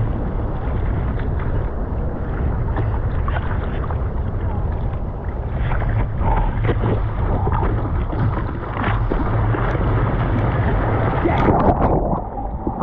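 Ocean surf and splashing water mixed with wind buffeting the microphone, a steady noisy rumble with scattered small splashes.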